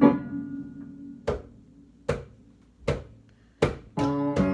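Bongos struck by hand, single sharp hits about once a second in a sparse break. A keyboard chord fades out at the start, and the full band chord comes back in near the end.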